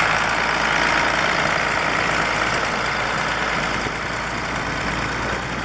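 Ursus 1224 tractor's diesel engine running steadily, cutting in suddenly at the start and easing off slightly toward the end.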